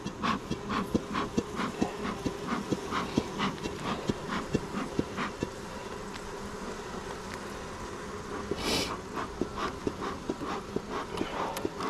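Honeybees humming steadily around an open hive. A run of quick clicks, about three a second, goes on for the first five seconds, and there is one short hiss about nine seconds in.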